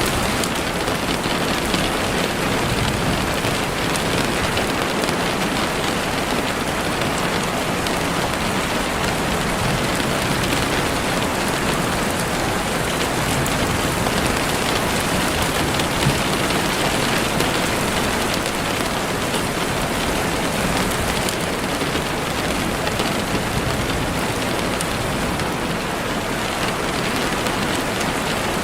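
Heavy rain falling steadily on leaves and the forest floor, a dense even patter with no let-up.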